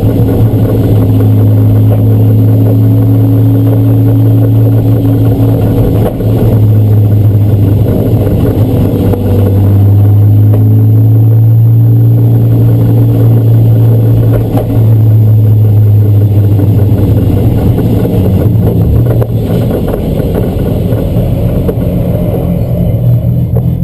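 Race car engine running hard and loud at steady speed, its note dipping briefly about three times (around 6, 14 and 19 seconds in).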